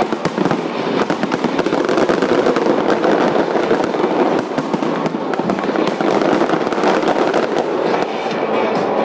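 Dense barrage of fireworks going off: a near-continuous run of rapid sharp bangs and crackles, with music showing through again near the end.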